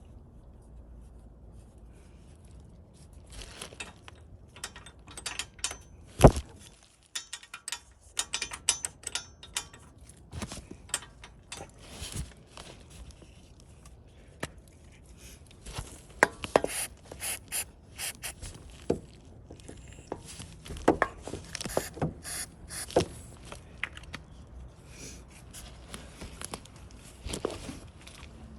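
Irregular clicks, taps and scraping of hard objects being handled, with one sharp knock about six seconds in.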